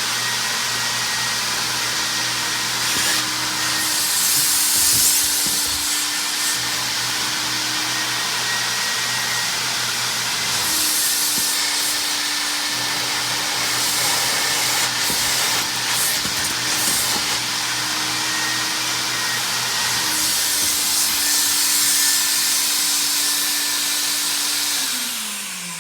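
Hot water carpet extractor (Mytee Lite 8070) running steadily during carpet extraction, its vacuum motor humming with repeated surges of hissing suction. Near the end the motor is switched off and winds down, its pitch falling.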